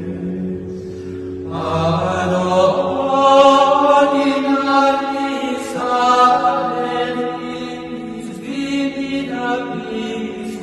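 Latin chant sung in long held phrases over a steady low drone. New phrases begin about a second and a half in, around six seconds and around eight and a half seconds.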